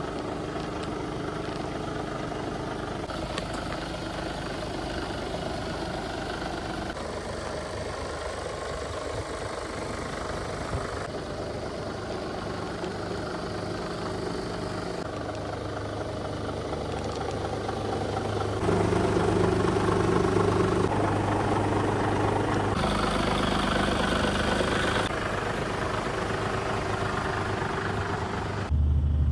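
2018 Mercedes Actros 1842 tractor unit's diesel engine idling steadily. Its tone and level shift abruptly several times, and it is louder over the last third.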